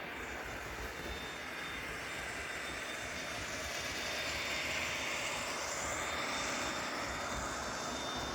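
H0-scale model passenger train running past on the layout: a steady whirring run that swells in the middle as it comes closest, then eases off.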